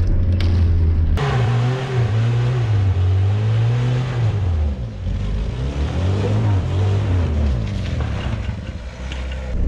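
Suzuki Vitara 4x4's engine revving up and down over and over as the vehicle is driven hard across rough off-road ground. It holds a steady note at first, then about a second in the revs start swinging up and down, easing off near the end.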